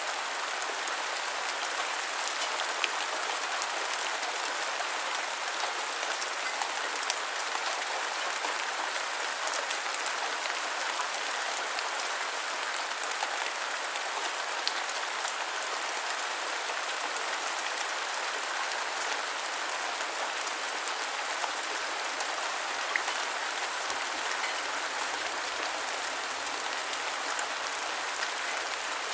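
Steady rain falling, an even hiss with scattered sharper ticks of individual drops landing.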